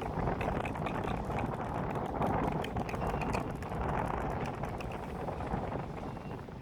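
Strong wind buffeting the microphone in gusts, with a run of quick, sharp clicks and knocks through the first few seconds.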